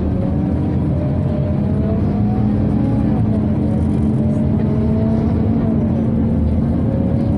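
Inside a Scania Omnicity city bus under way: a steady hum from the onboard ventilation fan over the drivetrain, whose whine rises and falls in pitch twice as the bus speeds up and eases off.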